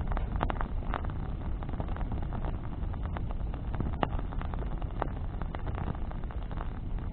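Wood bonfire burning with a low steady rumble and frequent sharp crackles and pops, the loudest pop about four seconds in.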